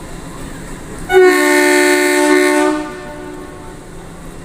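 Ooty mountain train's horn sounding one blast of about a second and a half, starting about a second in: a steady two-note chord over the constant noise of the running train.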